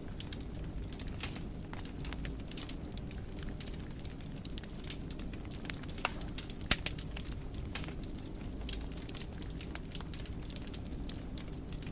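Wood fire burning in a fireplace: a low steady rumble of the flames with frequent irregular crackles and pops, one louder pop about two-thirds of the way through.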